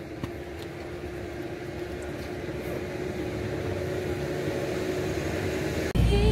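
Motor vehicle running: a steady engine hum with road noise that grows gradually louder. Loud music cuts in abruptly near the end.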